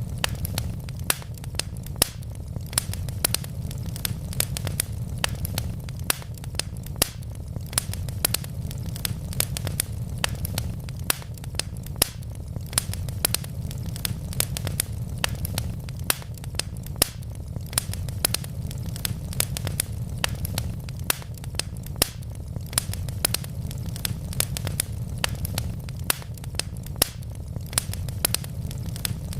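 Wood fire burning in a fireplace: a steady low rumble of the flames with many sharp, irregular crackles and pops from the burning logs, several a second.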